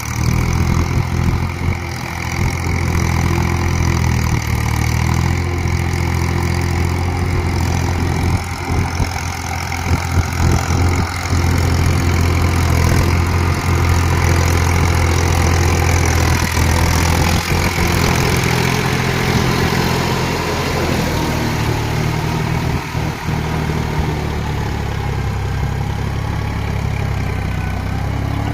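Preet tractor's diesel engine running steadily under load while it drives a rotavator through the soil.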